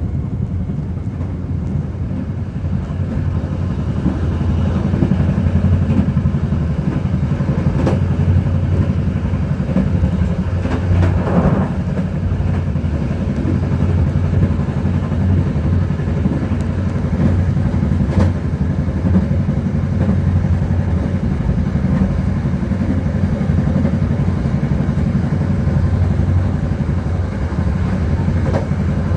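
Passenger train running along the track: a steady low rumble of wheels on rail, with a few faint clicks.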